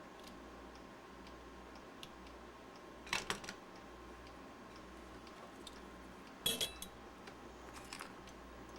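Small hard parts clicking and clinking against each other as the battery pack is handled and fitted into its case: two short clusters, about three seconds in and again about six and a half seconds in, and a fainter one near the end, over faint steady ticking.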